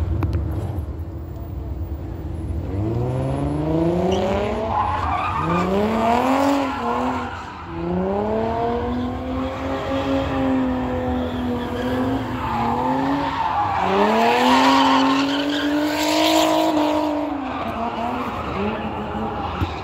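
Car engine revving hard during burnouts, its pitch climbing steeply and then held high for several seconds, in two long stretches. Tire squeal and screech run under it, loudest near the second stretch.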